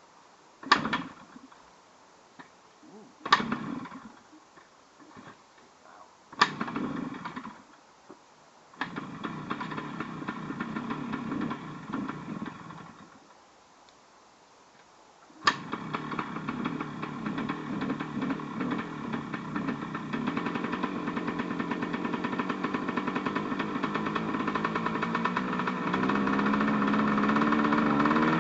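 Yamaha RT100 single-cylinder two-stroke engine cold-started on choke: kicked three times with only brief sputters, catching about 9 seconds in and running a few seconds before dying. Kicked again about 15 seconds in, it catches and keeps running, getting a little louder toward the end.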